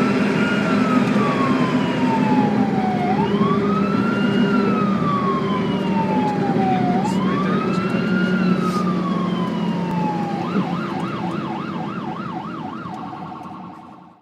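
Ambulance siren wailing in slow sweeps, each a quick rise then a long fall, about every three and a half seconds, over a steady low hum. About ten seconds in it switches to a fast warble, then fades out.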